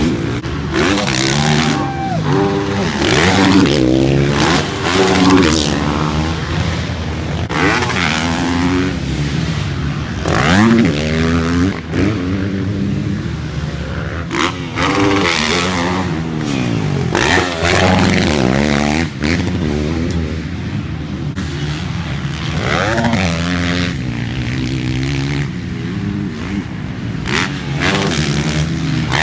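Several dirt bike engines revving on a motocross track, their pitch rising and falling again and again as the riders open and close the throttle and shift, with more than one bike heard at once.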